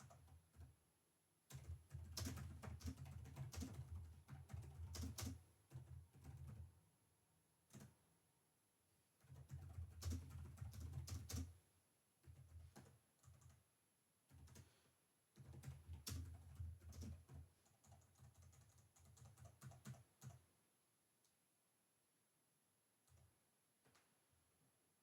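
Typing on a computer keyboard in three runs of quick key strokes, with short pauses and a few single clicks between them. It falls nearly quiet for the last few seconds.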